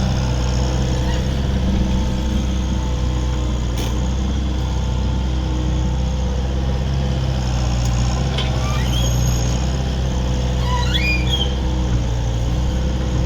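Mini excavator's diesel engine running at a steady, even speed. There is one sharp click about four seconds in, and a few short high chirps in the second half.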